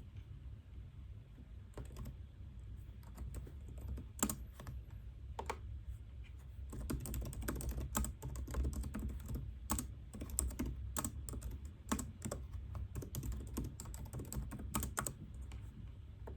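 Typing on a computer keyboard: a few scattered keystrokes at first, then a quicker, steady run of key clicks through the second half, over a low steady hum.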